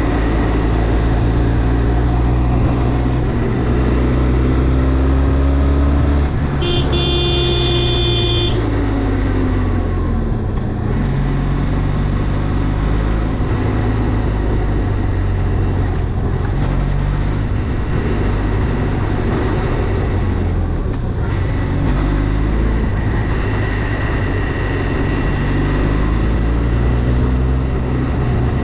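Benelli TRK 502 motorcycle's parallel-twin engine running under way, its pitch rising and falling with the throttle and gear changes. A vehicle horn sounds once for about two seconds near the start.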